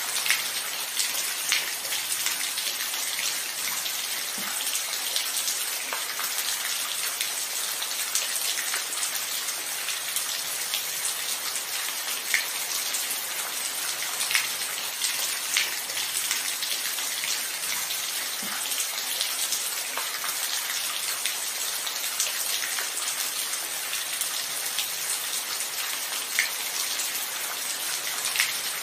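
Steady rain falling, an even hiss with individual drops ticking sharply every second or so.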